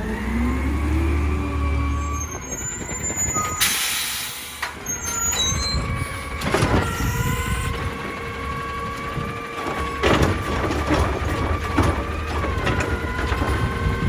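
Heil Durapack Rapid Rail garbage truck working a pickup: the engine runs with a whine that rises and dips as the revs change, an air brake hisses briefly about four seconds in, and there are sharp knocks near the middle and later on.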